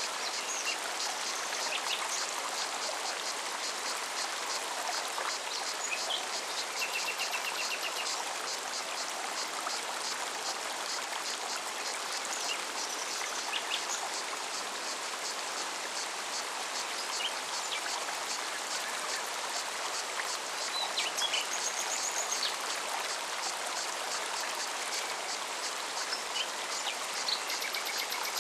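Mountain forest stream flowing steadily, with a cicada's song of rapid, regular high pulses running through it and scattered short bird chirps.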